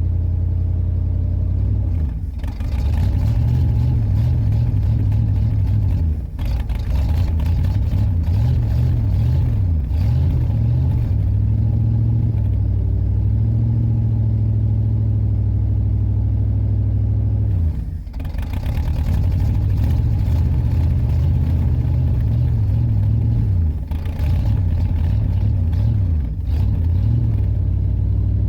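Car engine running, its deep note rising and falling in pitch, with a few short dips in level.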